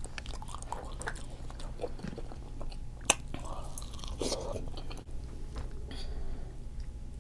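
Close-up chewing and biting of seafood-boil food, with wet smacking clicks and a sharper click about three seconds in.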